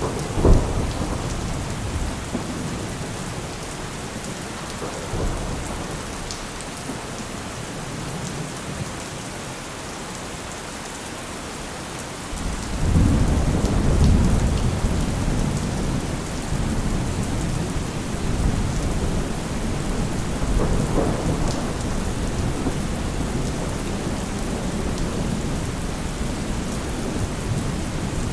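Steady heavy rain with thunder: a sharp crack just after the start, then about halfway through a long low rumble of thunder swells up and rolls on, with another swell a little later.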